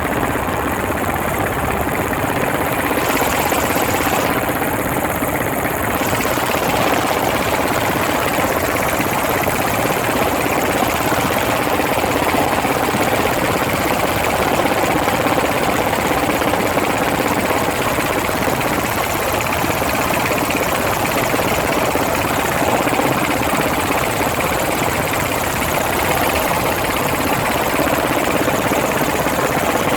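Helicopter in flight heard from on board: a loud, steady drone of engine and rotor noise.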